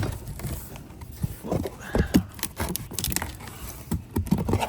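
Unboxing noise from a push reel mower's shipping carton and packing: irregular knocks, scrapes and rustles as the parts are lifted out of the cardboard box.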